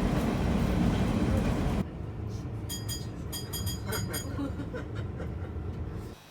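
Train running with a loud, steady rumble that cuts off abruptly, followed by a quieter rail scene with a rapid series of high metallic clinks.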